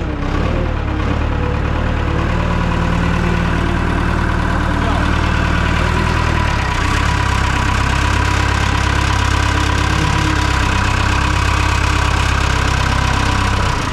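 1967 JCB 3C Mk II backhoe loader's diesel engine running loud and steady with throttle on, on its first run after about ten years standing. Its note changes about halfway through.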